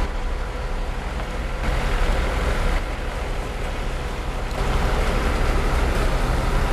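Heavy truck running, a steady low rumble with rushing road noise that swells and eases a few times.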